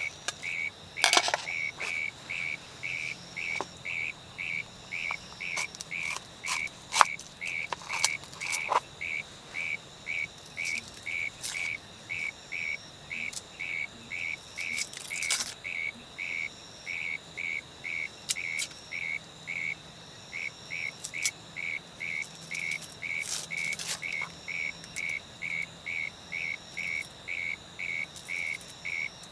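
An animal calling with a short, high note repeated evenly about twice a second, going on steadily, with occasional sharp clicks and taps over it.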